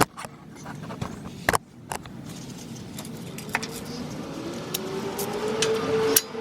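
Sharp metallic clicks and clinks of tools in the first second and a half, then a passing motor vehicle approaching, its noise growing steadily louder with a slowly rising tone.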